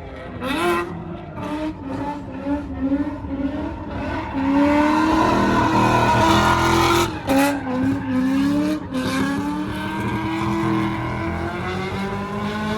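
Drift car's engine revving up and down as the car slides sideways, with tyres squealing. It is loudest about halfway through, with two brief drops in the engine note shortly after.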